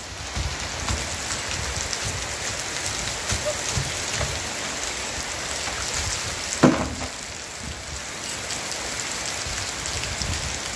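Steady rain falling on a concrete rooftop. About two-thirds of the way through there is one short, sudden, loud sound as a bucketful of water is tipped out over a child.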